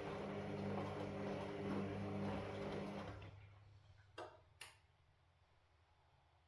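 Washing machine running with a steady hum over a rushing noise, which fades out and stops about three seconds in. Two sharp clicks follow, about half a second apart.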